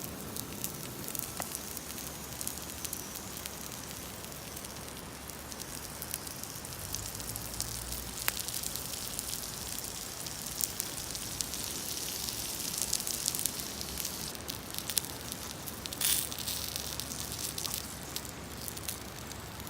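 Gyoza sizzling as they fry, a steady hiss with scattered small pops and crackles from the fire, and a louder spatter about three quarters of the way through.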